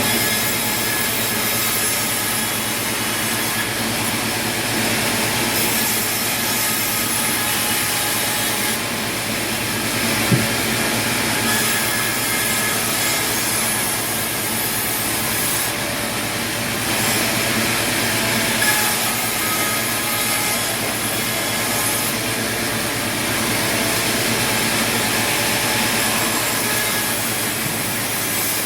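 A powered sawmill saw cutting steadily through wood, a continuous noise of the running saw and blade in the cut, with one sharp knock about ten seconds in.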